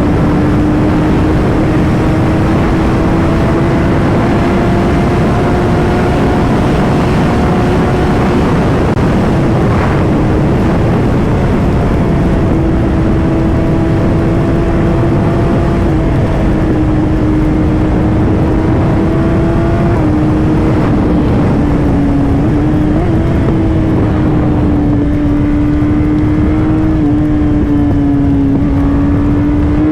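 Kawasaki ZX-10R inline-four engine running at a steady cruise. Its pitch holds nearly constant with small dips as the throttle eases, over heavy wind rush on the microphone.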